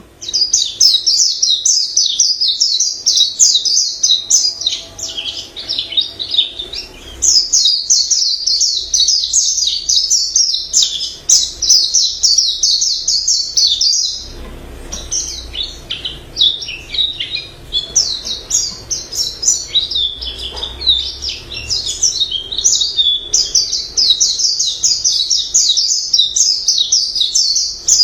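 White-eye singing a long, rapid, varied warbling song of high twittering notes, pausing briefly about halfway through before carrying on.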